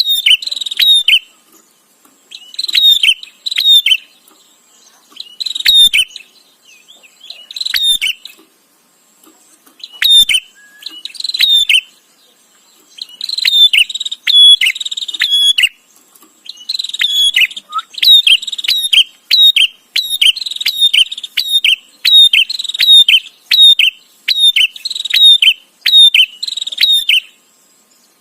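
Prenjak (prinia) calling loudly and persistently: bursts of sharp, rapid chirping notes in short phrases. The phrases follow one another almost without a break in the second half.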